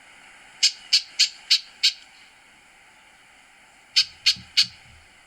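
A bird calling: a series of five short, sharp notes about a third of a second apart, then after a pause three more.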